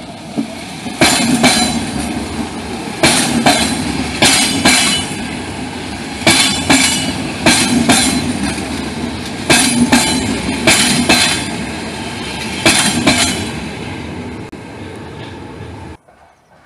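Saltsjöbanan electric train rolling slowly over newly laid rails in a sharp curve. Its wheels knock in pairs about eight times over a steady rumble. The sound cuts off suddenly near the end.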